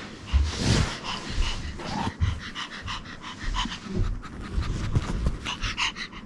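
A Pomeranian panting in quick, even breaths, several a second.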